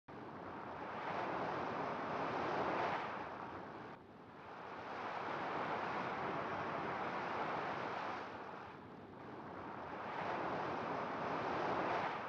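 Ocean surf: waves washing in, the rushing noise swelling and falling back three times, about every four seconds.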